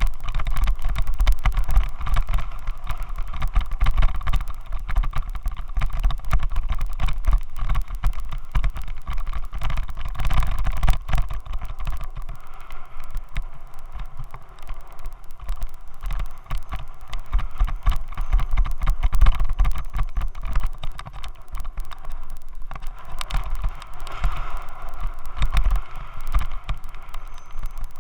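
Continuous low wind rumble with a dense, rapid rattling picked up by a Xiaomi Yi action camera shaking in its helmet mount; the rattle and vibration noise come from a faulty helmet mount.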